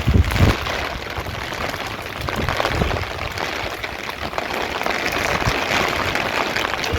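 Rain falling steadily, an even hiss, with a few low rumbles near the start.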